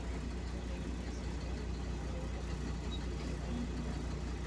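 Inside a LiAZ city bus on the move: a steady low engine hum with road noise, unchanging throughout.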